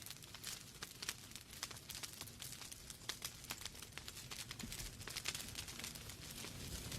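Wood fire in a fireplace crackling: irregular sharp pops and snaps over a soft steady hiss of burning logs.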